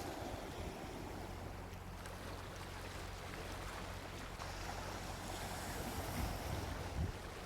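Gentle ocean waves washing onto a beach, with a hiss of surf that builds again a little past halfway. A faint steady low hum runs underneath.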